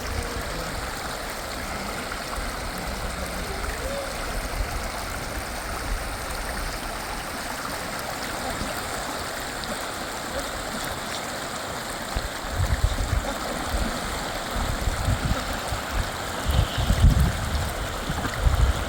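A fast river rushing steadily, a continuous hiss of water. Low rumbling bursts come in and out over the second half.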